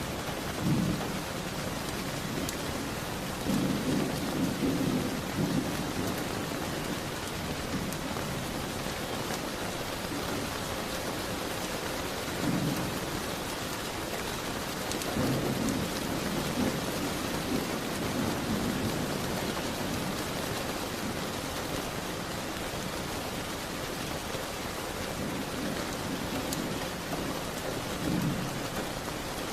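Steady heavy rain falling, with low rumbling swells rising and fading several times and a few faint crackles from a wood fire.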